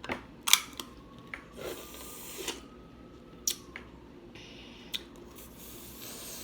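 Snow crab leg shells cracking as they are broken open: about half a dozen sharp cracks and snaps spread over several seconds, a couple of them duller and crunchier.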